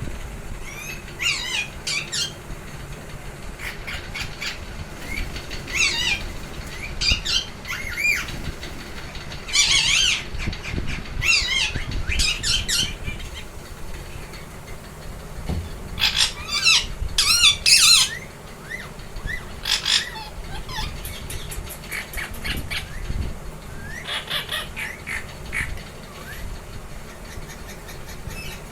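Parrots squawking in short bouts of harsh, sliding calls, repeated every couple of seconds: a chick squabbling with its mother, with low rustling underneath.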